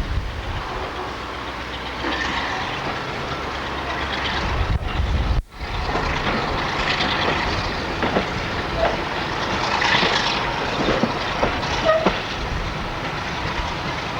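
Train running on the rails, with wheel clicks over the track joints. The sound cuts out for a split second about five and a half seconds in.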